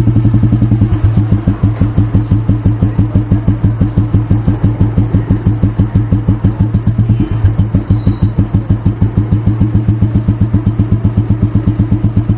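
Royal Enfield Bullet 350cc single-cylinder cast-iron engine idling steadily through a genuine Indore silencer, with an even, regular thump of exhaust beats.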